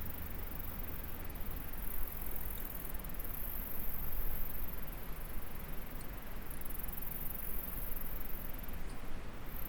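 Insects chirring in a continuous very high-pitched drone that drops out briefly about two-thirds of the way through and again near the end, over the steady rushing of flowing water.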